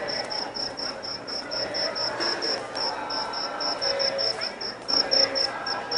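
Cricket chirping steadily in short, evenly spaced high-pitched pulses, about five a second, over a low background murmur.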